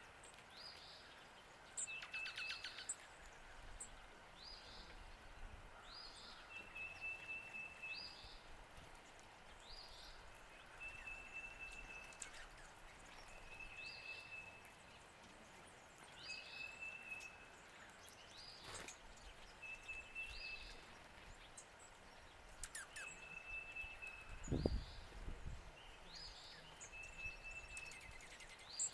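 Birds calling over and over: short high chirps alternating with a held, even whistled note every couple of seconds. There is a single low thump near the end.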